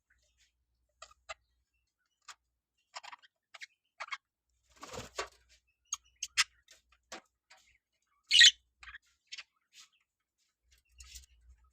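Budgerigars in a colony giving short, sharp chirps at irregular intervals, with one louder, longer call about eight seconds in.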